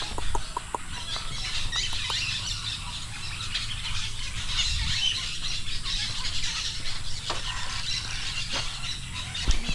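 Many birds calling and chattering together in a dense, overlapping chorus, over a low rumble of wind or handling, with a single knock near the end.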